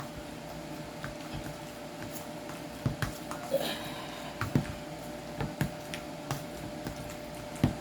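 Potato masher working cooked potatoes in a pot: soft squishing with irregular sharp knocks against the pot, about one a second from a few seconds in, over a faint steady hum.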